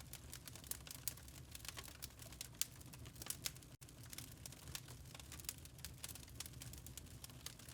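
Wood fire crackling in a fireplace: irregular sharp pops and snaps over a soft low rumble, cutting out for an instant nearly four seconds in.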